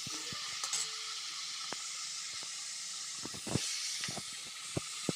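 Spice paste frying in hot mustard oil in a kadhai, a steady sizzling hiss, broken by a few sharp clicks of the slotted spoon against the pan, with a cluster of them a little past the middle.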